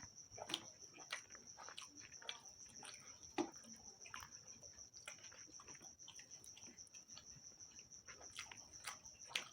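A person chewing food close to the microphone, with irregular wet mouth clicks and smacks. A faint steady high whine runs underneath.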